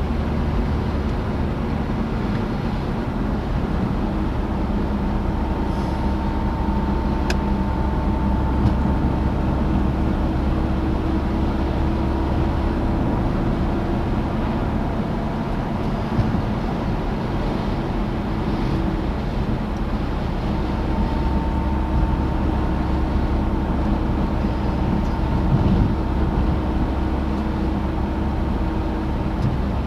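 Citroën DS on the move: steady engine and road noise with a heavy low drone, and faint whining tones that drift slightly in pitch as the speed changes.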